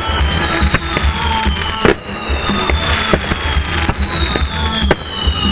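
Aerial fireworks going off: repeated sharp bangs and crackles, with high whistling tones that fall in pitch, over loud music played with the show.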